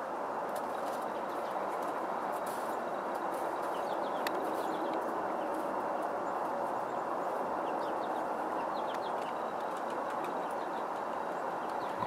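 Faint short bird chirps in two brief runs, about a third and three-quarters of the way in, over a steady rushing background noise, with one sharp click in the first run.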